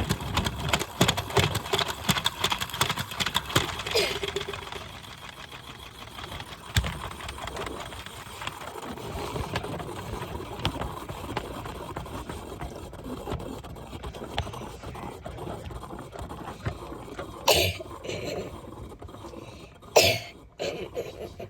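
Washing machine running, with a fast, dense rattle for the first few seconds that settles into a quieter steady run. Two sudden loud bursts come near the end, about two and a half seconds apart.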